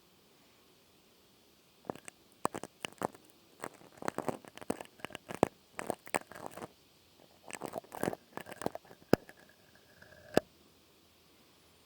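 Close-miked ASMR trigger sounds: irregular clusters of sharp crackles and clicks starting about two seconds in, with short pauses between clusters, ending with one sharp click about ten seconds in.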